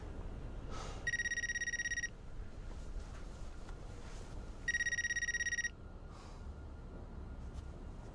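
Telephone ringing: two bursts of about a second each of a fast electronic trill, about three and a half seconds apart.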